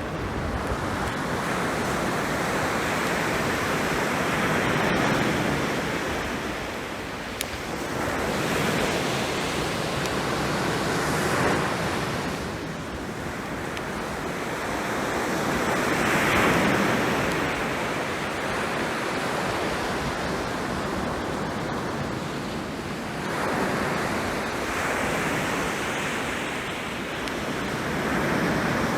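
Sea waves breaking and washing up on a beach, the surf swelling and falling back every few seconds.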